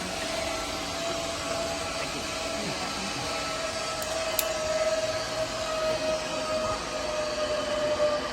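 Zipline trolley's pulley wheels running along the steel cable: a steady rushing whine whose tone slowly falls in pitch.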